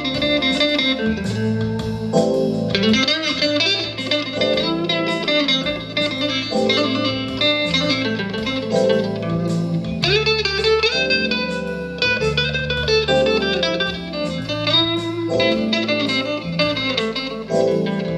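Instrumental passage of a jazz-blues band number: electric guitar playing a lead line over bass notes.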